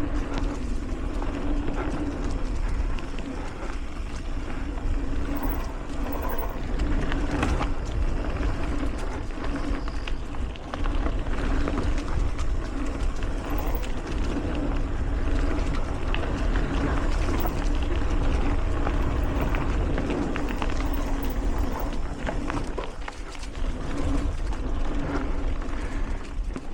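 Mountain bike rolling fast over dry dirt singletrack: a steady rumble of tyres and wind on the microphone, with a hum that comes and goes and frequent small rattles and clicks from the bike over the rough trail.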